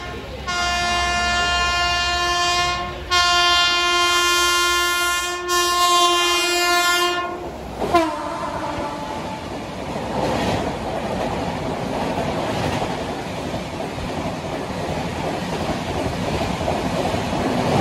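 An express train's horn sounds in three blasts, the last held for about four seconds, its pitch dropping sharply as the locomotive passes about eight seconds in. After that comes the steady rushing noise of the coaches going by at full speed.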